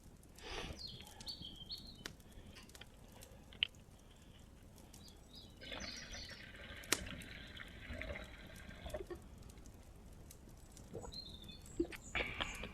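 Water being poured for about three seconds, a steady splashing hiss, with scattered small clicks and knocks of handling around it.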